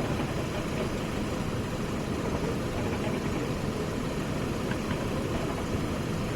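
A steady engine drone with a low rumble, holding even throughout.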